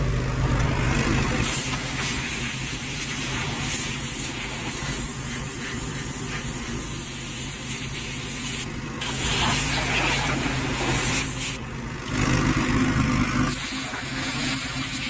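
Pressure washer running with its jet spraying on a greasy engine oil pan, a steady hiss over a motor's hum. The spray cuts out briefly about nine seconds in and again about twelve seconds in.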